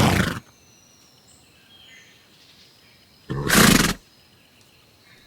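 Horse snorting twice: two short, breathy blasts about three seconds apart.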